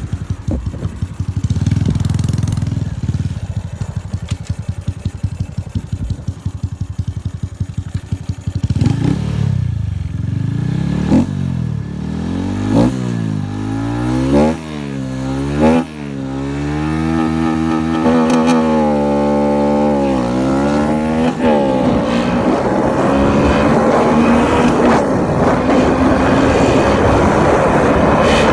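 Honda Dream motorcycle's small single-cylinder engine with a modified cam, on its first run after being built. It idles with a fast, lumpy pulse, then is revved in a series of quick throttle blips that rise and fall in pitch from about nine seconds in, with one longer held rev. In the last few seconds it pulls away, its pitch climbing steadily under acceleration.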